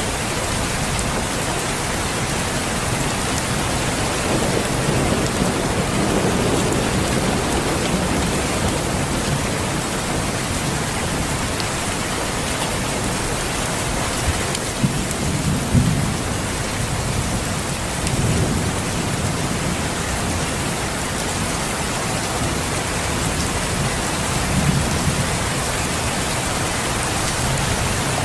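Steady rain falling, with low rolls of thunder swelling up a few times.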